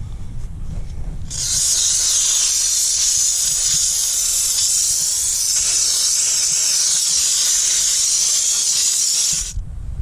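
Jet of steam from a Dupray Neat canister steam cleaner's nozzle, a steady high-pitched hiss that starts about a second in and cuts off sharply shortly before the end.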